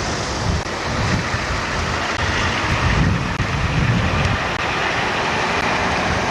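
Steady rumble and hiss of a car driving, with gusty wind buffeting the microphone.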